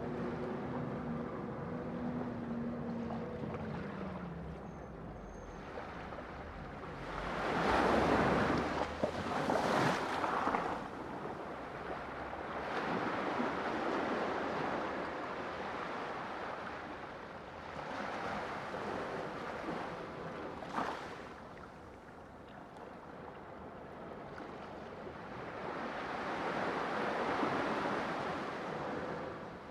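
Sea waves breaking and washing in, swelling and fading in slow surges every several seconds, the loudest surge about eight to ten seconds in.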